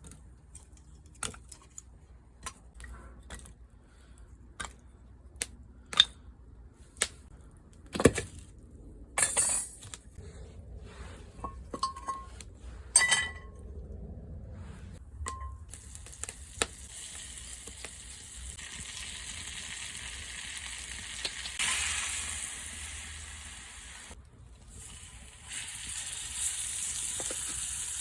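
Sharp clinks and knocks of cookware for the first half, then a steak sizzling in a frying pan from about halfway, the sizzle swelling twice near the end.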